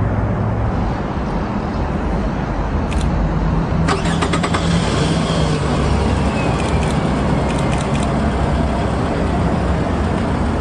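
Compact SUV's engine running at rest close by, a steady low rumble, with a few sharp clicks about three and four seconds in and again near eight seconds.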